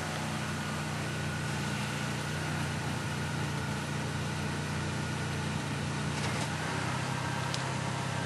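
Car engine idling steadily: a low, even hum under a hiss.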